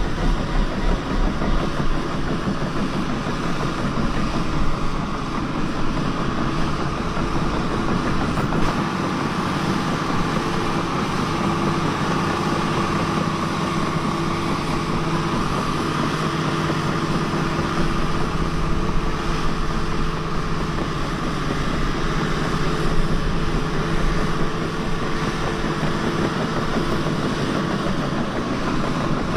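Bulldozer working, its diesel engine running steadily.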